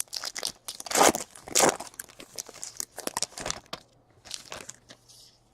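Trading card packs and cards being handled: irregular crinkling and tearing of a pack wrapper and rustling of cards, loudest about a second in and growing faint near the end.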